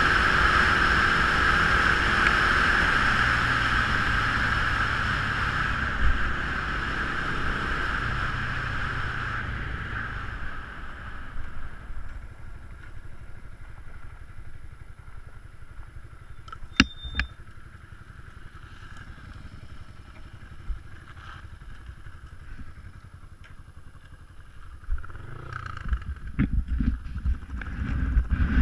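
Motorcycle engine running steadily, then fading away over about ten seconds, leaving quieter background with a few clicks. Near the end there is low, gusty wind buffeting on the microphone.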